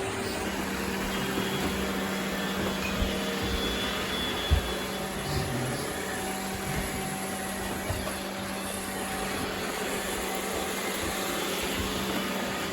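Roomba robot vacuum running steadily while picking up confetti: an even whirring with a constant low hum. There is one sharp click about four and a half seconds in.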